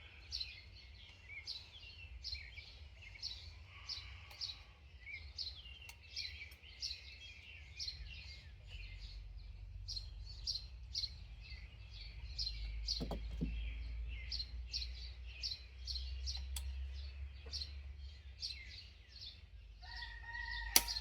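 Small birds chirping continuously, several short high chirps a second, over a low steady rumble, with a few light clicks near the middle and again near the end.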